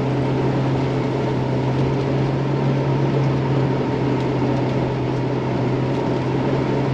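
Truck engine running steadily while driving through snow, a constant low drone with no change in pitch.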